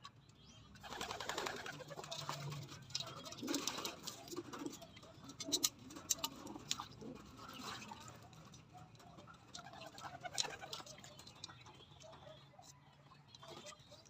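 Young racing pigeons splashing and flapping their wings in a water bath, starting about a second in, with pigeons cooing.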